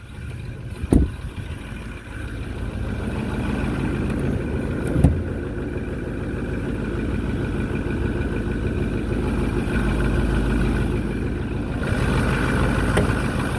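Ford 6.4 L Power Stroke V8 turbo diesel idling steadily, with a sharp knock about a second in and a short thump about five seconds in.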